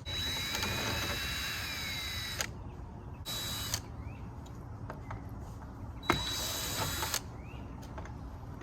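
Power drill backing out screws: three runs of motor whine, a long one of about two and a half seconds, then a short burst and a one-second run, the pitch rising and falling with the trigger.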